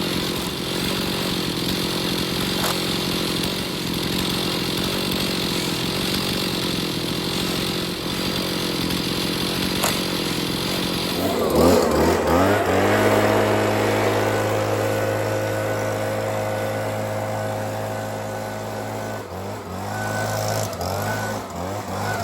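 Chainsaw in an Alaskan chainsaw mill running at full throttle through a log. About eleven seconds in the revs drop and the saw settles to a steady idle, with a few small changes in speed near the end.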